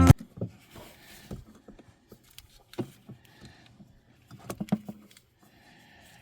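Scattered light clicks and knocks of tools and parts being handled during hands-on repair work, with a quick run of several clicks about four and a half seconds in.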